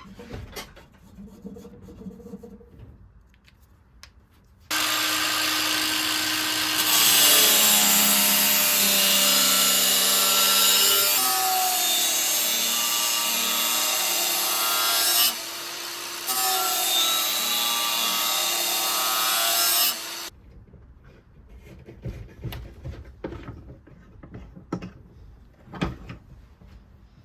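Angle grinder with a flap disc grinding high-carbon rasp steel, starting suddenly about five seconds in. Its pitch shifts as the load changes, it eases off briefly about fifteen seconds in, and it cuts off near twenty seconds. Faint taps and scrapes of handling come before and after it.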